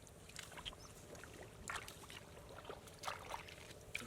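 Faint, irregular splashes and sloshing of shallow water, a few short splashes spread through.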